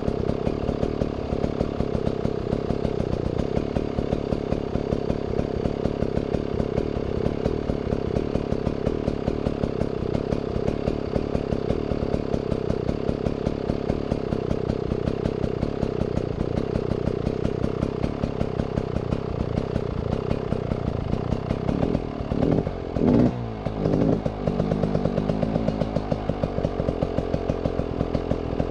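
Beta Xtrainer two-stroke engine idling steadily while it warms up, with a brief unsteady rise and fall in engine speed a little over twenty seconds in.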